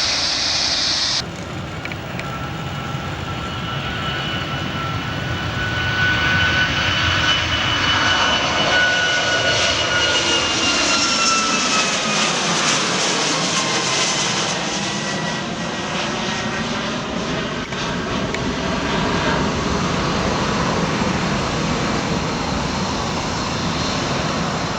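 Boeing 737 MAX 8-200's CFM LEAP-1B jet engines at takeoff power as the airliner departs, a loud rumble with whining tones that drop in pitch as it passes, about ten to fifteen seconds in.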